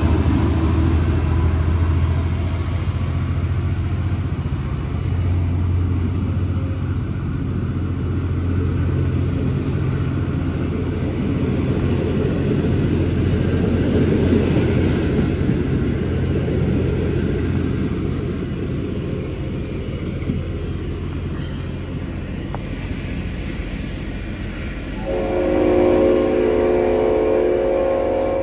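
Train hauled by an N-class diesel-electric locomotive running with a steady low rumble. Near the end the locomotive's horn sounds a multi-note chord, held for about three seconds.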